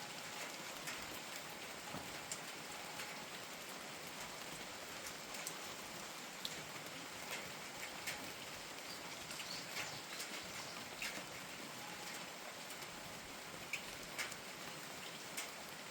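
Steady, gentle rain falling, with scattered individual drops standing out as sharp little ticks.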